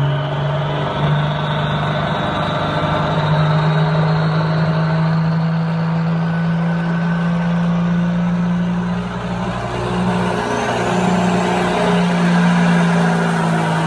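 A motor vehicle's engine running steadily under power, giving a strong, even drone throughout.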